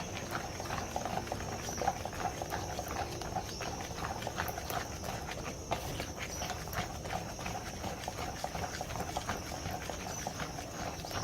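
Cooking oil heating in a thick pan, crackling and sizzling with many small irregular pops.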